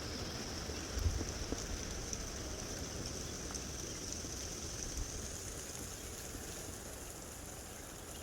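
Gusty wind blowing, with low rumbling buffets on the microphone, strongest about a second in and easing toward the end. A steady faint high-pitched whine runs underneath.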